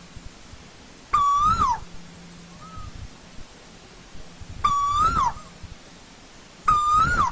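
Asian koel calling: three loud calls a few seconds apart, each about half a second long, holding a note, rising slightly and then dropping at the end. A much fainter call comes between the first two.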